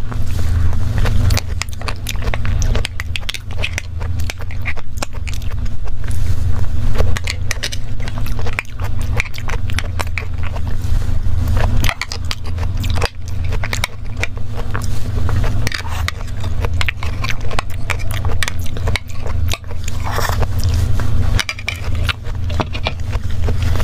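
Close-miked eating sounds: wet chewing and mouth clicks from a soft mango-and-cream dessert, with a spoon scraping and tapping a clear plastic cup, over a steady low hum.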